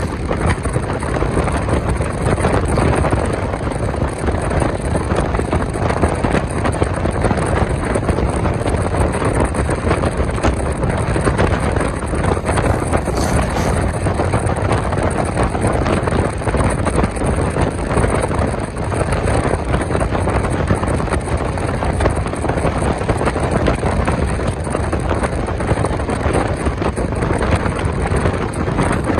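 Passenger train running at speed, heard from on board: a steady rumble of the coach and its wheels on the rails, with wind noise on the microphone.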